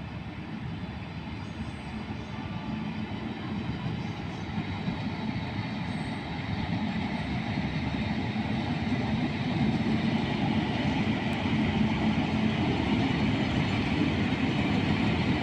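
Train hauled by an electric locomotive approaching at speed, its rumble and rail noise growing steadily louder.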